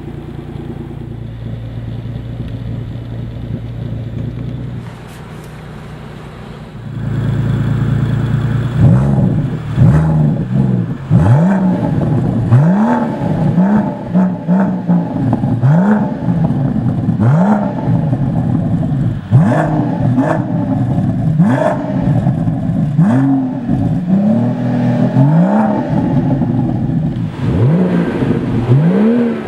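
BMW M760i's twin-turbo V12 engine and exhaust idling steadily, then, after about nine seconds, revved repeatedly, the pitch rising sharply and falling back about every second and a half to two seconds.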